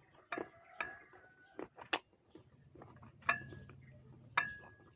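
Cutlery tapping and clinking against a ceramic dish: about six sharp taps, a couple of them ringing briefly.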